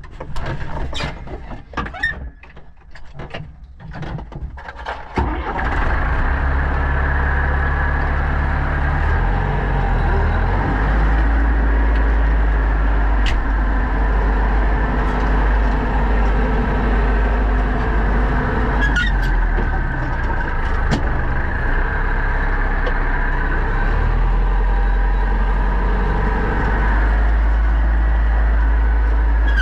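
Pronar 1025A tractor's diesel engine running steadily during ploughing, coming in suddenly and loud about five seconds in after a stretch of quieter, uneven sound.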